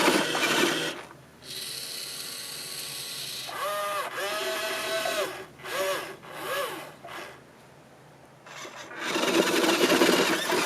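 Toy-grade RC fire truck's small electric motor whirring and its wheels scrabbling on gravel: it is not all-wheel drive and struggles on the loose surface. Loud for about the first second, quieter through the middle with a few short rising-and-falling tones, then loud again from about nine seconds in.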